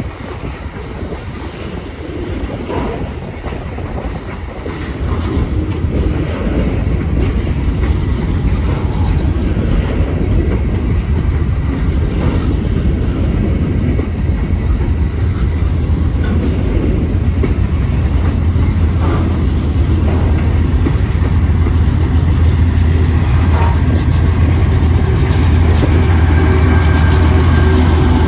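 A train passing on the rails, with railcar wheels clattering over the track. About five seconds in, a deep steady diesel locomotive engine drone sets in and grows louder.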